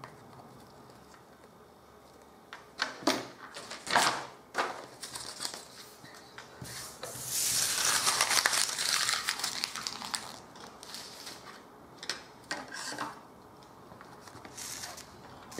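Paper rustling and rubbing as cut-out paper pieces are handled and glued down. There are short crinkles and taps, with a louder stretch of steady rubbing in the middle.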